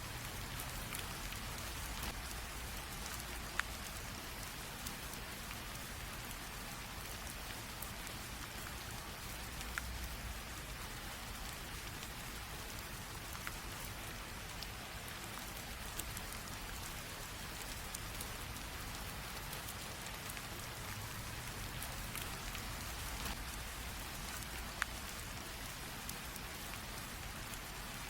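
Light drizzling rain, a steady even patter of fine drops on a surface, with now and then a single louder drip standing out.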